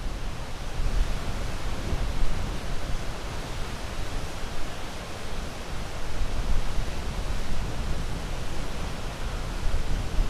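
Sea waves washing in a steady, unbroken rush, with small swells in loudness.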